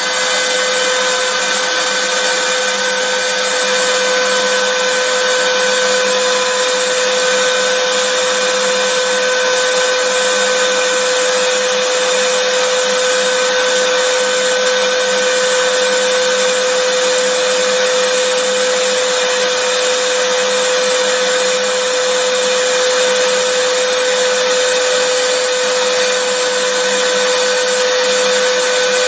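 Vacuum cleaner running steadily, a constant motor hum with a whine near 500 Hz over an even rush of air.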